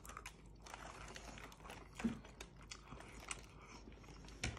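Faint chewing of a mouthful of burger, with scattered small mouth clicks. A soft thump comes about two seconds in, and a sharper knock near the end.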